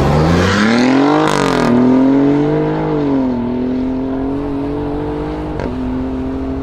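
Alfa Romeo Giulia's twin-turbo V6 accelerating hard. The engine note climbs and drops sharply twice as it shifts up, about a second in and again about three seconds in, with a short hiss at the first shift. It then holds a steady pitch, dipping slightly with a small pop near the end.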